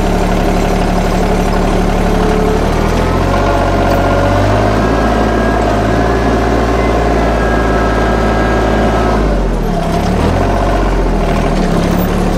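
An engine running steadily, speeding up about three seconds in and dropping back to a lower speed about nine seconds in.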